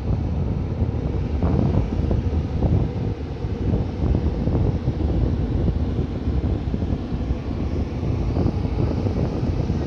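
Renfe Class 470 electric multiple unit passing close by, a steady low rumble of its wheels on the rails, with wind buffeting the microphone.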